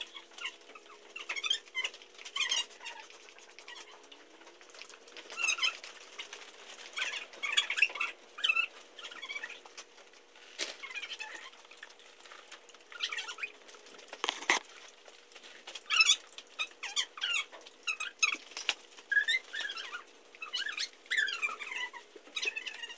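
Small birds chirping and twittering in short, squeaky, irregular calls, with one sharp knock about fourteen and a half seconds in.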